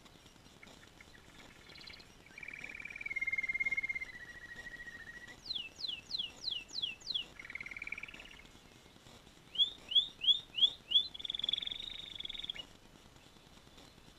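Canary singing a song in several phrases, beginning about two seconds in: a trill that sags slightly in pitch, a run of six quick downward-sweeping notes, a short rolling phrase, five quick rising notes and a high trill.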